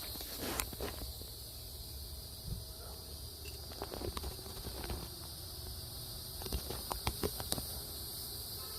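Steady high-pitched insect chorus in the background, with scattered light clicks and knocks from handling, more of them in the second half.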